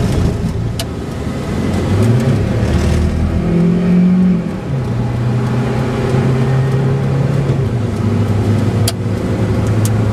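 Car engine accelerating while pulling away. Its pitch climbs for a few seconds, drops at a gear change about four and a half seconds in, then holds steady at cruising speed.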